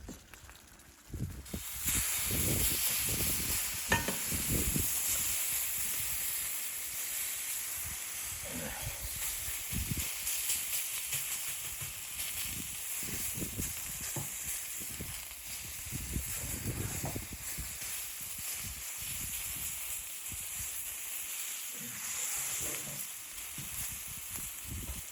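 A steady sizzling hiss that starts suddenly about two seconds in, with soft low knocks and thuds scattered under it.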